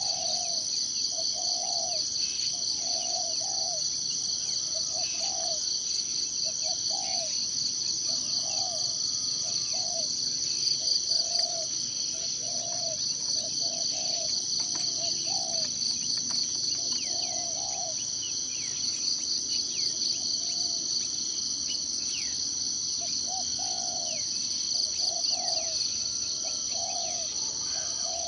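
A steady, high-pitched insect chorus, crickets or cicadas, trilling without a break. Under it, a short low call repeats about once a second, falls silent for a few seconds partway through, then resumes. A few faint high bird chirps come and go.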